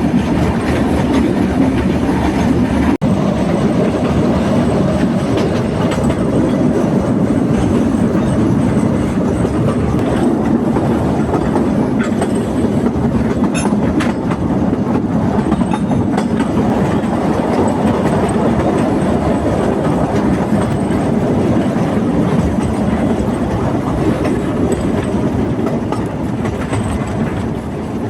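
A 600 mm narrow-gauge forest railway train running, with steady wheel rumble and clickety-clack over the rail joints, heard from aboard.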